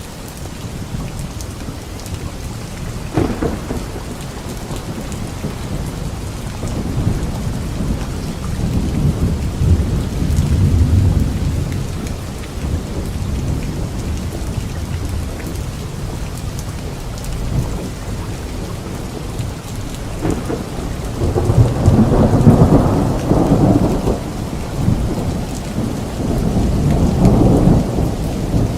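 Steady rain with rolling thunder: a sharp crack about three seconds in, then low rumbles that swell around ten seconds in and twice more in the last third.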